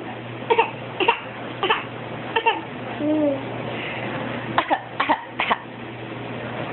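Baby making a new noise: a string of short, raspy, cough-like huffs, about seven in all, with a brief voiced coo in the middle. It sits somewhere between baby talk and laughing.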